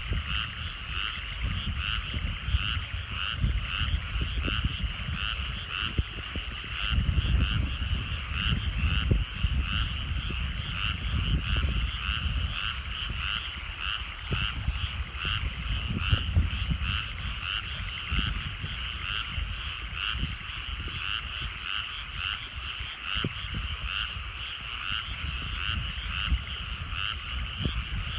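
A chorus of frogs calling from rice paddies, many fast, repeated croaking pulses overlapping without a break. An uneven low rumble runs underneath.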